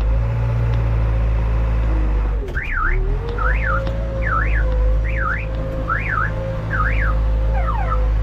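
JCB backhoe loader's engine running steadily, with an electronic warbling alarm that starts about two and a half seconds in and sweeps up and down six times.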